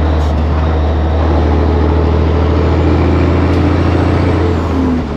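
Heavy truck's diesel engine droning steadily while the truck is driven.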